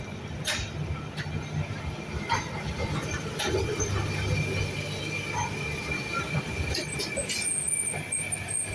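Tram running on street rails: a steady low rumble with a few sharp clicks. A steady high-pitched wheel squeal grows stronger near the end.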